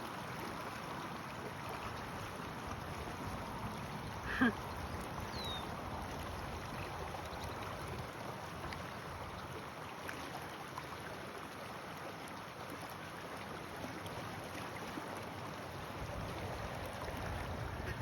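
Small creek flowing with a steady, even rush of water. About four seconds in there is one brief, sharp sound.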